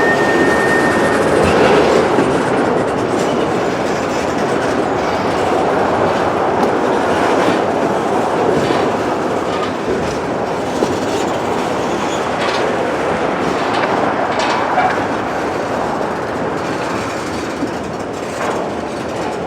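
Freight cars of a Norfolk Southern train rolling past: a steady rumble of wheels on rail with scattered clicks over the joints, and a thin high wheel squeal that fades out about a second in.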